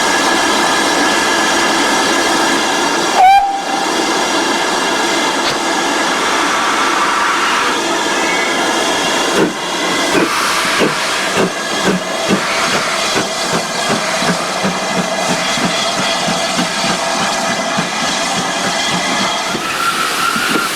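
Steam tank locomotive No. 4277, a 2-8-0, hissing steam steadily. From about ten seconds in comes a run of regular beats, roughly two a second, as the engine works.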